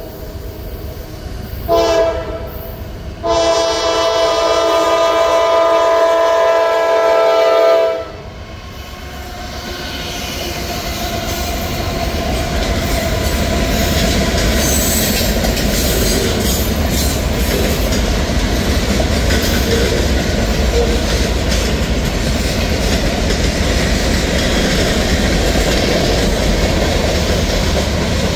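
Norfolk Southern freight locomotive's multi-tone air horn sounding a short blast, then a long blast of about four and a half seconds for a grade crossing. After that, diesel locomotives rumble past, followed by freight cars with their wheels clicking and rattling on the rails.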